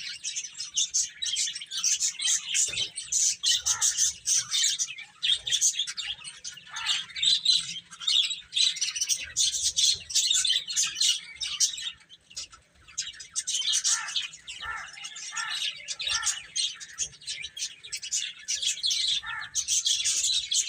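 A group of baby chicks peeping continuously, many short high chirps overlapping, with a brief lull about twelve seconds in.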